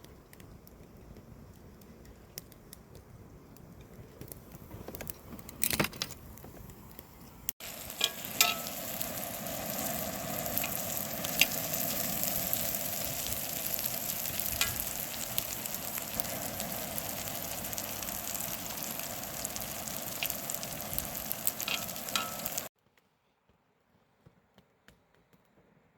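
Food frying and sizzling on a hot pan or grill, a steady hiss with scattered pops. It is soft at first, becomes abruptly louder about seven and a half seconds in, and cuts off suddenly near the end.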